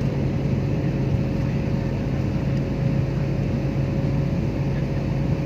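Steady drone of an airliner cabin in flight: engine and airflow noise at an even level, with a low hum and a constant higher tone.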